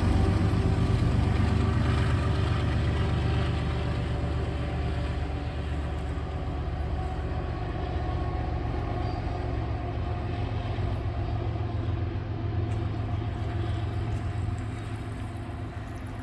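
Freight train rolling past with a GE Evolution-series diesel locomotive's engine running. A steady low rumble fades gradually as the train moves away.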